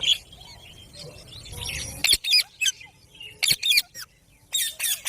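Indian ringneck (rose-ringed) parakeets calling in short, harsh screeches, in quick runs of two or three that come about every second and a quarter.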